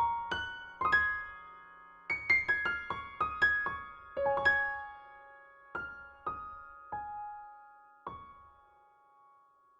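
Background piano music: a slow melody of single struck notes that ring and fade away, growing sparser toward the end, with the last note about eight seconds in.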